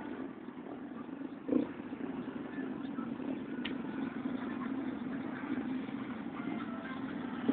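Vehicle engines running on a street, a steady drone, with a brief louder burst about a second and a half in.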